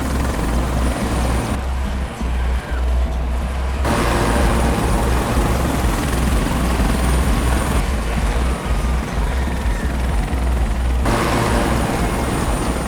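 Helicopter in flight: steady rotor and engine noise with a heavy low rumble. Its tone shifts abruptly several times, as where separate shots are cut together.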